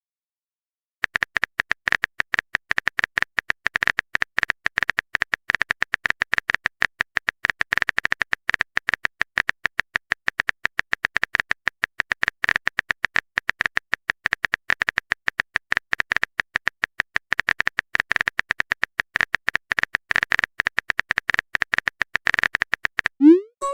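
Phone keyboard typing sound effect: a fast, uneven stream of small clicks that starts about a second in and stops near the end, followed by a short rising swoop.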